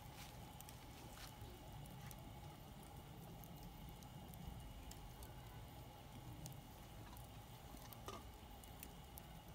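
Faint wood campfire crackling: a few sparse small pops and ticks over a low, steady rumble.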